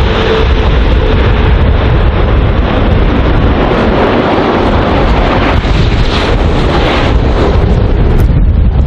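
Strong wind buffeting the microphone: a loud, continuous rumbling rush with no let-up.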